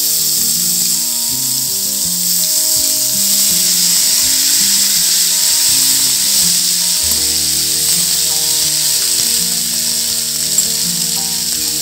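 Chopped tomatoes sizzling steadily in hot oil in a steel kadai as they are tipped in and stirred: the first frying of a tomato chutney. Background music plays over it, with a bass line coming in about seven seconds in.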